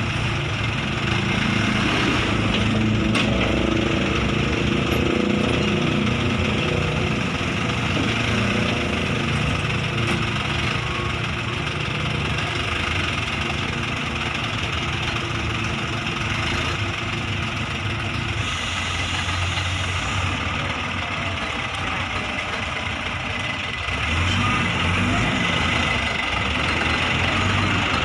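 Truck engine running steadily under a constant hiss; the engine gets louder again near the end.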